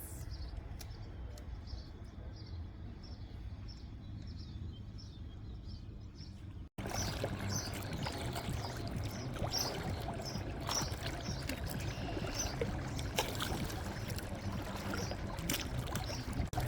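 Water and wind noise around a fishing kayak, with a faint, regular high ticking about two to three times a second. The sound cuts off and resumes louder about seven seconds in.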